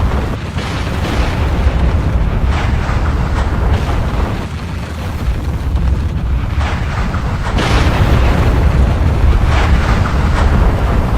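Volcanic eruption: a continuous deep rumble with irregular bursts of hissing noise every second or so, growing a little louder about eight seconds in.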